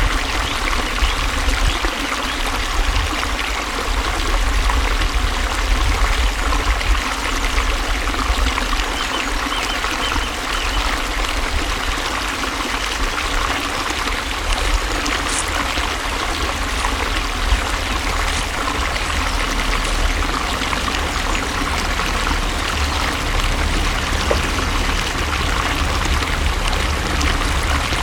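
Flowing water, a steady, unbroken rush with a strong low rumble underneath.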